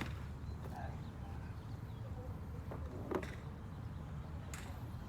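Golf clubs striking balls at a driving range: several short, sharp clicks, the loudest a little after three seconds in, over a steady low rumble.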